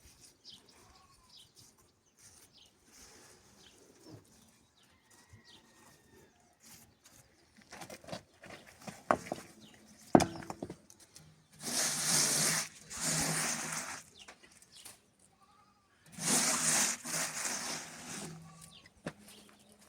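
A goat bleating loudly in two long spells in the second half, each of about two or three calls. Scattered knocks and clicks come before it.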